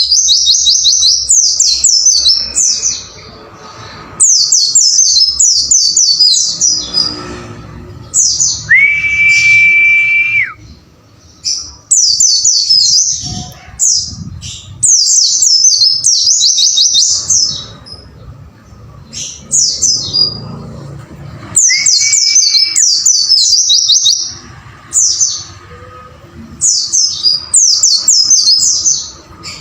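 White-eye (pleci) song: rapid, high twittering phrases repeated one after another, with short gaps between them. A long level whistle sounds twice, once near the middle and once about two-thirds of the way through.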